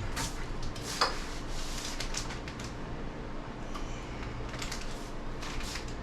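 Plastic bag of shredded cheese being handled: scattered crinkling rustles and light clicks, one sharper click about a second in, over a steady low hum.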